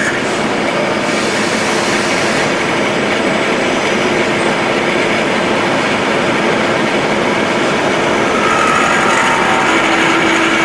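Milling machinery running steadily: a loud, even mechanical noise with a few faint steady tones.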